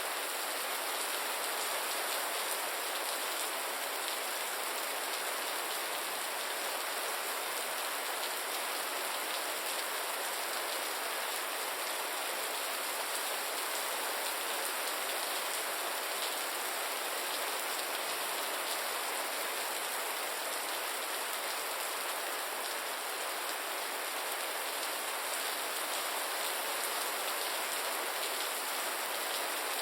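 Steady, gentle rain falling: an even hiss of many small drops that holds constant throughout, with no thunder or low rumble.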